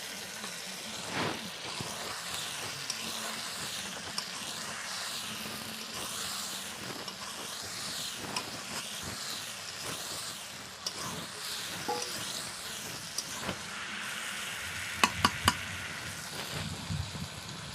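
Chicken pieces frying in a spiced onion-tomato masala in oil, a steady sizzle with scraping and small clicks from stirring. Three sharp knocks come close together near the end.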